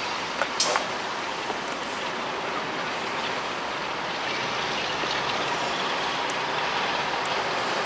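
Steady rushing rail noise of a train approaching out of sight, growing slowly louder, with a few sharp clicks about half a second in.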